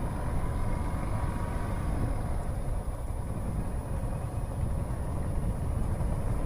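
Motorcycle engine running steadily while riding, with a low rumble of road and wind noise.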